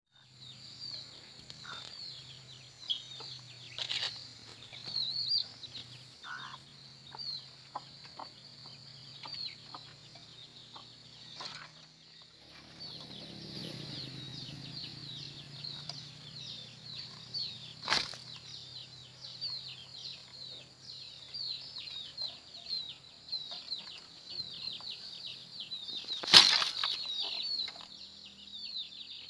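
Quail chirping continuously in rapid, short high notes, with brief flutters of wings. There is a sharp knock about 26 seconds in, the loudest sound.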